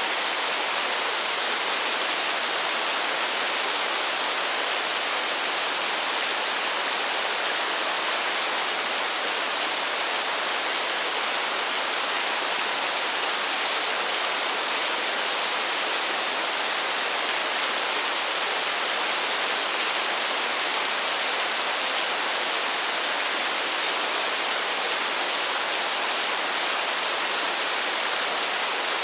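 Steady rain falling in a forest, an even unbroken hiss with no single drops standing out.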